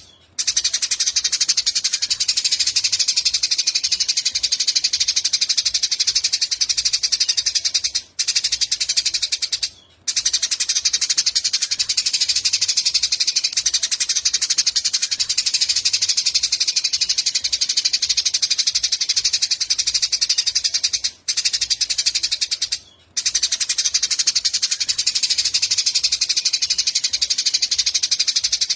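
Eurasian tree sparrow chirps in a dense, fast, unbroken stream, stopping briefly a few times.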